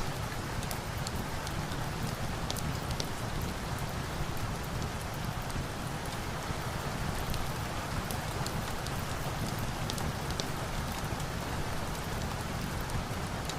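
Steady rain falling, an even hiss, with scattered small sharp crackles from a log fire.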